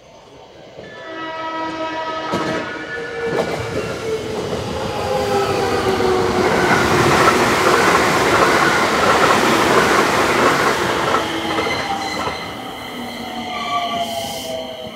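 Electric train running into and along the station, its motors whining in several slowly falling tones at first, then wheel and rail noise building to a loud peak in the middle and easing off near the end. Two sharp clicks come a few seconds in.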